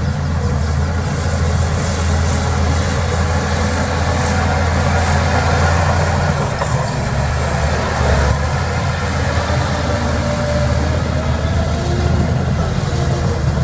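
Heavy diesel engine of earthmoving machinery running steadily, its note dipping briefly and returning about seven to eight seconds in.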